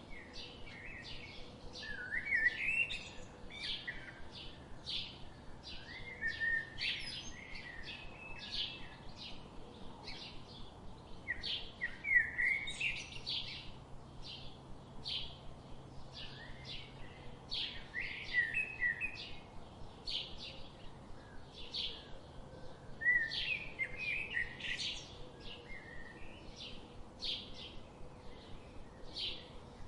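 Birds chirping: a steady run of quick, high, short chirps, two or three a second, broken every five or six seconds by a brief, lower, warbling phrase.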